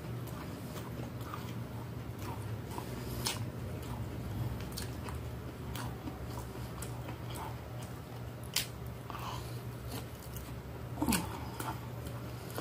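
A person chewing a mouthful of beef shank with its sinew, close to the microphone: soft wet mouth clicks and smacks, with a louder smack about eleven seconds in, over a steady low hum.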